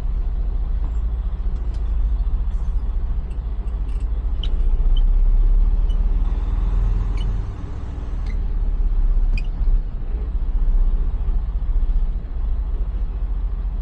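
Semi truck's diesel engine running while the tractor-trailer is maneuvered into position to back up to a loading dock, the engine note swelling and easing as the driver works the throttle. A few faint light clicks.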